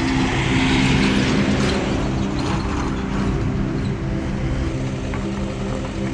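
A steady low hum with a vehicle passing by, its hiss swelling about half a second in and fading by about three seconds in.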